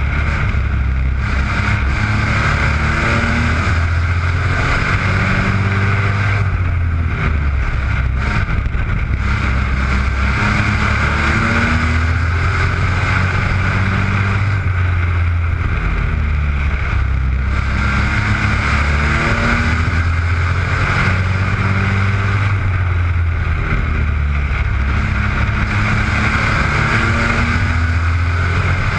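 Several race-prepared mini pickup trucks running laps in a heat race, their engines droning loudly with pitch rising and falling repeatedly as they accelerate down the straights and lift for the turns.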